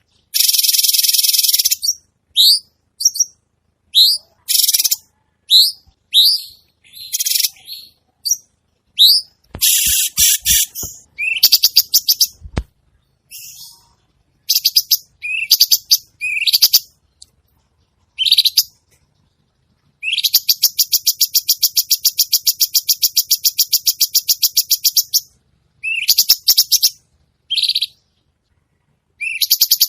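Songbird calls from a masteran recording of harsh 'kasaran' fill-in phrases. Short, high, rising chirps come one after another at uneven gaps. They are broken by fast, dense rattling trills, the longest lasting about five seconds past the middle.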